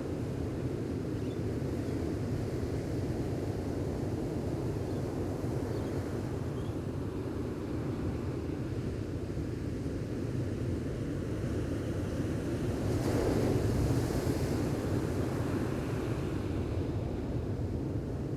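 Gentle ocean waves washing on a beach as a steady low rush, with one wave swelling louder and hissing up the shore about two-thirds of the way through.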